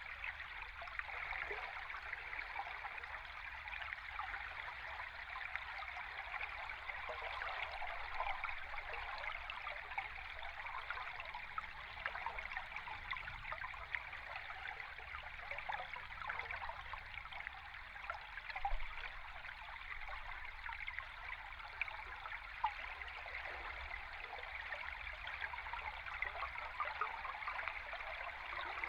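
A river stream heard underwater: a steady bubbling, trickling rush full of fine crackles, over a faint low rumble.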